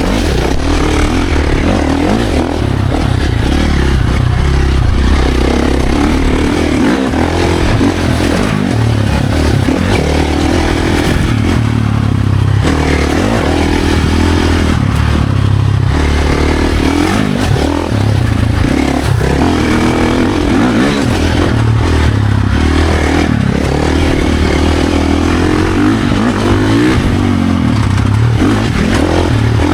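Dirt bike engine revving up and down continuously, the pitch rising and dropping every second or two as the throttle is worked through the gears.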